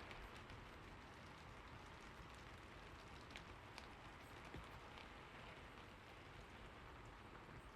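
Soft, steady rain, with a few scattered drops ticking now and then.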